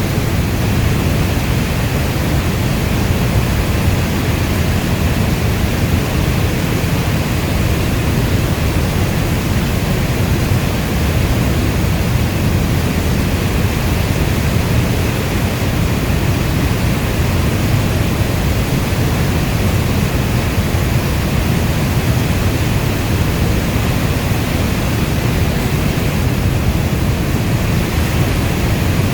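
Steady heavy rainfall: a dense, even hiss with a strong low rumble underneath, without separate drops or thunder standing out.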